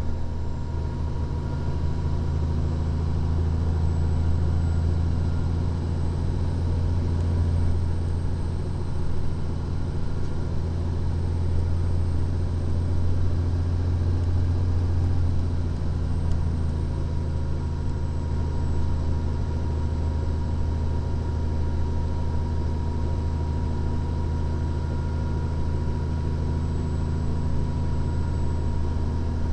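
The diesel engine of a 2014 Freightliner Columbia truck, heard from inside the cab as a steady low drone with road noise. The drone is a little stronger for the first half and eases slightly after the middle.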